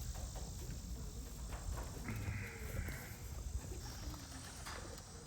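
Racing pigeons moving about at the loft trap, with a short hoarse animal call about two seconds in.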